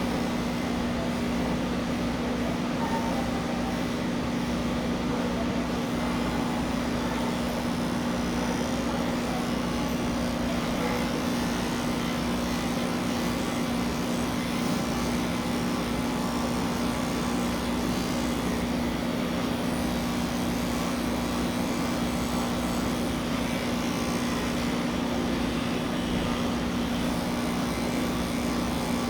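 Electric pet hair clippers running steadily, a constant buzzing hum.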